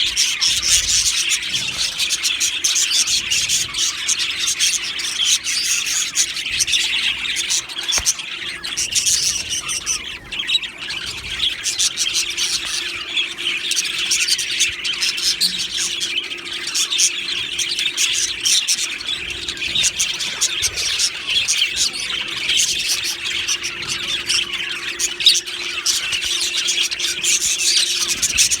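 A colony of budgerigars chirping and chattering continuously, many birds at once.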